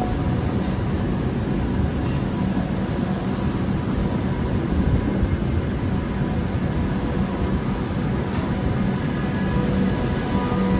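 Train running with a steady low rumble and a constant hum, no sudden events.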